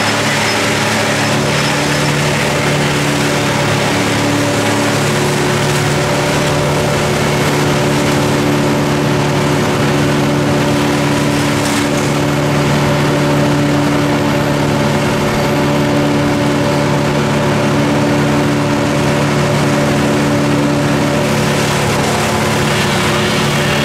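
An engine running steadily at a constant speed, with an even hum that holds its pitch throughout.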